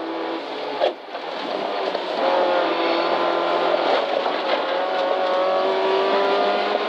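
Toyota Corolla rally car's engine heard from inside the cabin. About a second in there is a sharp crack and the engine note drops, then it climbs again and holds under acceleration.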